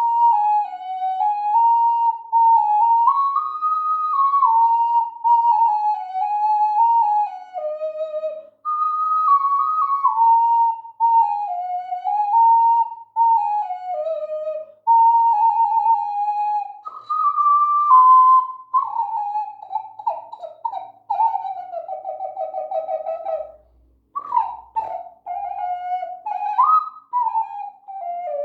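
An ocarina tuned to a C-sharp minor pentatonic scale at 432 Hz plays a slow melody of stepped notes in phrases with short breaks between them. About two-thirds of the way in it moves to fast trills and fluttering notes.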